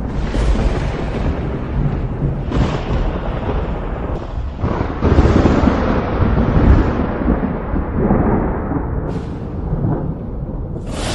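Thunder rumbling and rolling continuously, with several fresh rolls breaking in; the loudest comes about five to seven seconds in.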